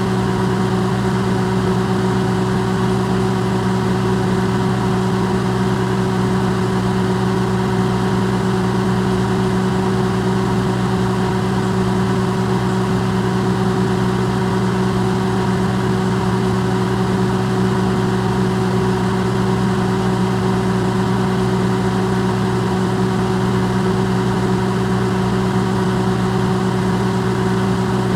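Electrolux microwave oven running: a steady, unchanging hum of several held low tones over an even hiss, recorded amplified.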